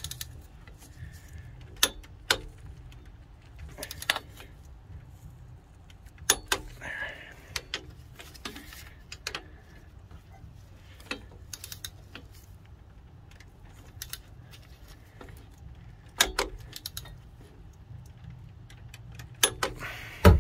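Scattered sharp metallic clicks and clinks of a click-type torque wrench and socket working the exhaust riser and manifold bolts, the wrench clicking off at its set torque. The clicks come at irregular intervals, with a few louder knocks.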